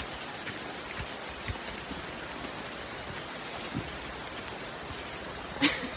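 Steady rain falling, an even hiss with a few faint low knocks.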